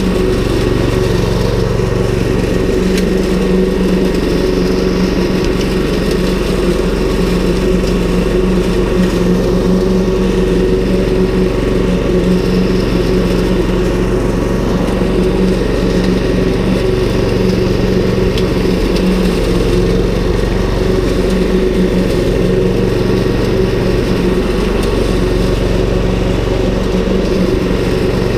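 Ryobi 190cc four-stroke petrol lawn mower with a Subaru engine running at a steady speed while mowing long grass.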